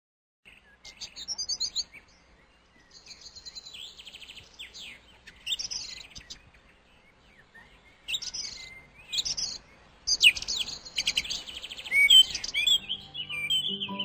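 Birds chirping: a run of short, high calls and trills, with music starting near the end.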